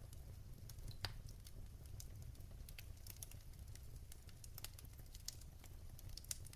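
Wood fire crackling in a fireplace: irregular sharp pops and snaps over a low steady rumble, with one louder crack about a second in.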